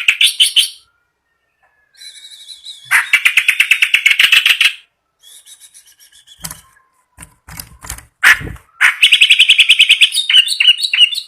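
A caged kerak basi, a reed warbler, singing loud bursts of fast, harsh, repeated chattering notes. There are three main bursts, with shorter calls and a few low knocks in the gaps.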